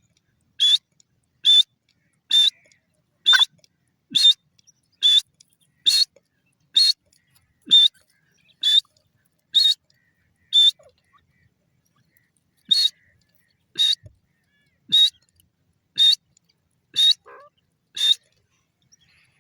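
Grey francolin calling: a short, sharp, high note repeated about once a second, with a pause of about two seconds near the middle.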